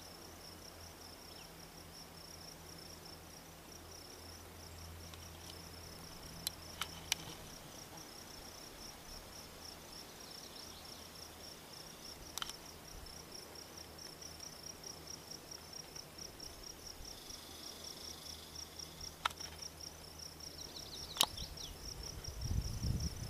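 Meadow insects, crickets or similar, chirping in a steady high-pitched pulsing trill of several chirps a second. A few sharp clicks come at scattered moments, and there is a low rumble near the end.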